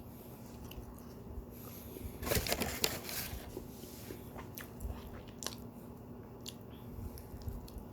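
A person biting and chewing a baked dessert close to the microphone, with a burst of crunching about two seconds in and scattered smaller mouth clicks afterwards.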